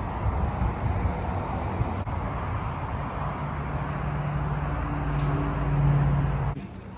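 A vehicle engine running with traffic-like rumble and noise. A steady hum grows louder in the second half and cuts off suddenly near the end.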